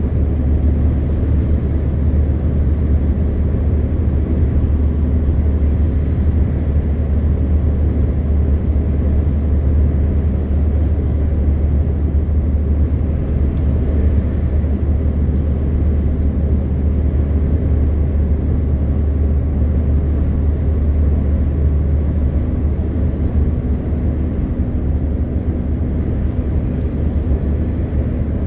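MAN TGX 520 truck driving at a steady pace: a constant low drone from its six-cylinder diesel engine mixed with steady road and tyre noise.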